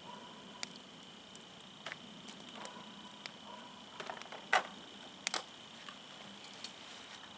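Wood fire crackling: scattered sharp pops and snaps of burning firewood, the loudest two a little past halfway.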